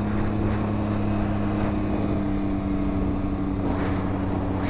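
Can-Am Ryker Rally Edition's three-cylinder engine running at a steady cruising speed, heard from on the bike as an even hum that holds one pitch throughout.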